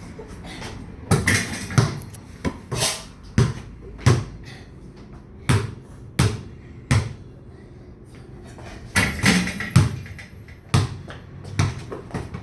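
A ball, likely a basketball, bouncing repeatedly on a hard floor at an irregular pace: single bounces a second or so apart, with a quick flurry of bounces about nine seconds in.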